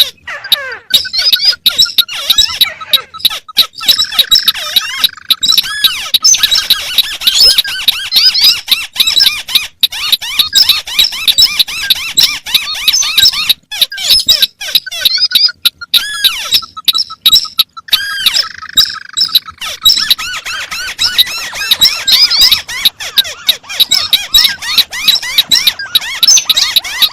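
Recorded crake calls: a dense, rapid chatter of squeaky notes, several calls overlapping. A run of quick, even notes recurs about every 14 seconds as the recording loops.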